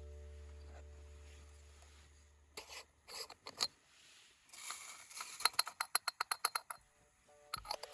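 A held low note fades out. Then come scraping and clicking, and a quick run of about a dozen sharp scratchy strokes, roughly five a second, from an object being worked by hand.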